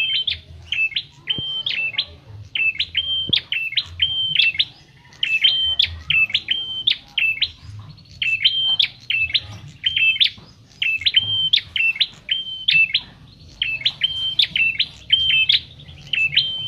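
A small Javan songbird, the prenjak kepala merah (cimblek), calling over and over in quick runs of short, high, sharp chirps, about two a second, with short breaks between runs. A faint low hum lies underneath.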